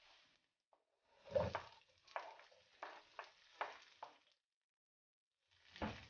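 Chunks of onion dropped into a hot non-stick wok of garlic and ginger in oil, landing with a thump about a second in and then sizzling and crackling for a few seconds. A wooden spoon stirs the pan near the end, with another burst of sizzling.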